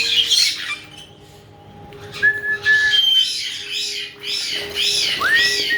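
Caique parrots chirping and squawking in repeated short arched calls, with a pause about a second in, mixed with a few whistled notes: one held flat whistle and, near the end, a whistle that rises and then slides down.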